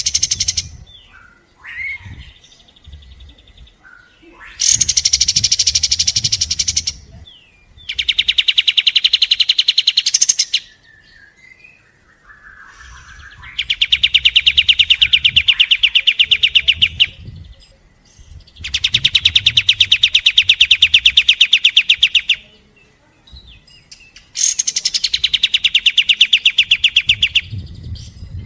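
A kapas tembak songbird singing its fast 'shooting' song: five loud bursts of 2 to 4 seconds, each a rapid machine-gun run of sharp high repeated notes, with short chirps in the pauses between them.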